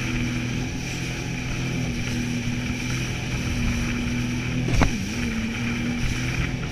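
Jet ski engine running steadily at speed, with wind and water rushing past. About five seconds in there is a short knock and the engine pitch dips briefly before it recovers.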